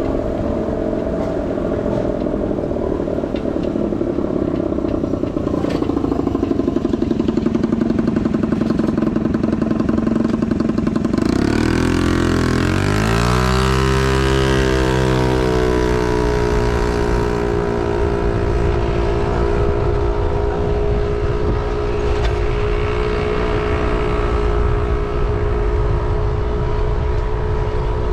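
A motor engine running close by, its pitch rising steeply about twelve seconds in as it speeds up, then holding steady, over a constant rush of wind and road noise.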